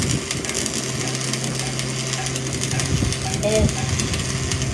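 A small engine running steadily at idle, with rapid metallic clicking and rattling over it.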